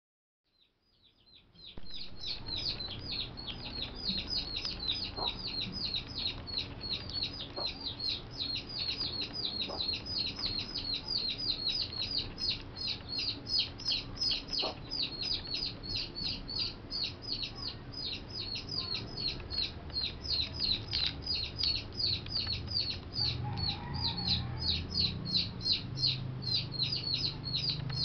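A bird chirping on and on in an even rhythm, about four short high chirps a second, fading in over the first couple of seconds. A low hum lies underneath, with a few faint clicks.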